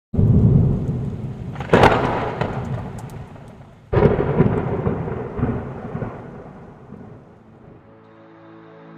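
Thunder: a loud clap right at the start, a sharp crack about two seconds in and another clap about four seconds in, each rolling and rumbling away. Soft music fades in near the end.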